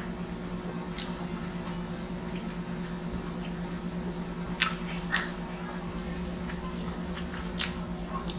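Eating mouth sounds: chewing and swallowing, with a few sharp wet clicks, the loudest two a little after halfway. A steady low hum runs underneath.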